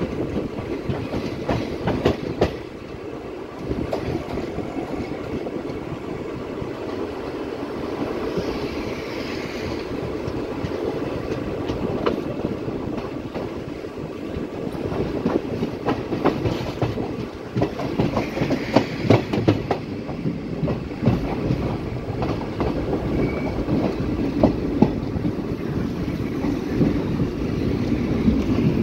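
Passenger train running on the rails, a steady rumble with wheels clattering over rail joints; the sharp clacks come louder and more often in the second half.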